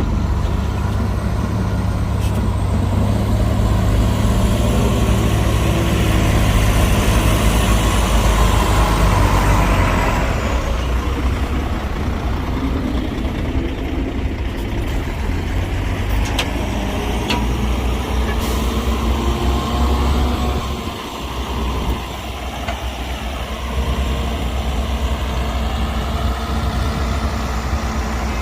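Heavy diesel earthmoving machinery running, with the engine sound swelling between about six and ten seconds in and a faint high whine rising and falling over it. The engine sound drops briefly about three-quarters of the way through.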